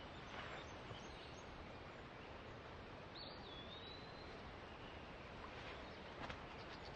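Faint outdoor ambience, a steady hiss, with one drawn-out bird whistle about three seconds in.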